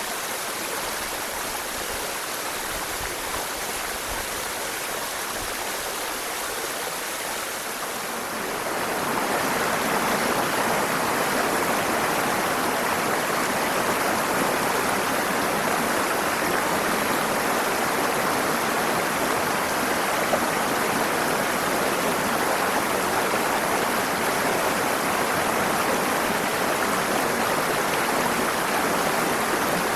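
Waterfall rushing steadily, growing louder about eight seconds in and staying level after that.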